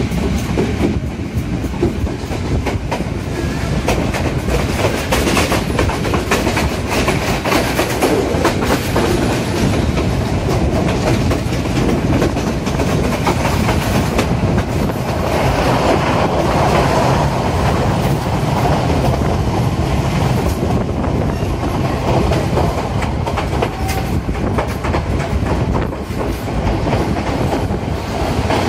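Passenger train carriage running over the rails, heard through an open window: a steady rumble with wheels clattering over the track. It grows harsher for a few seconds around the middle.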